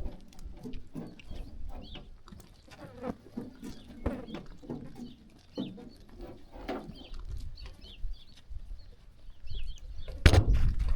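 Sheep walking and grazing: scattered short rustles and clicks, with small chirps of farm birds. A louder, deep rushing sound comes in near the end.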